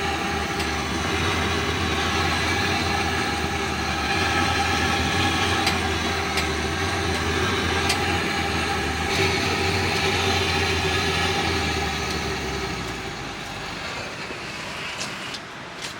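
A motor running steadily with a low hum and a few steady higher tones; the low hum dies away about thirteen seconds in.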